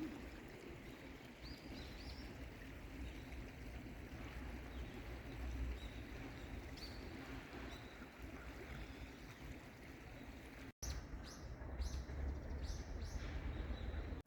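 Steady rush of flowing water with a few faint, high bird chirps. After a sudden break in the sound about eleven seconds in, a quick run of short, high chirps from small birds.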